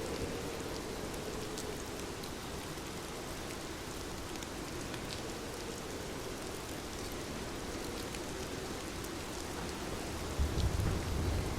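Heavy rain falling steadily, with individual drops ticking sharply here and there. A brief low rumble of distant thunder comes about ten and a half seconds in.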